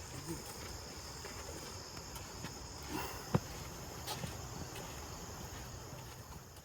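Insects chirring steadily in a high, even trill, with one sharp click about three and a half seconds in.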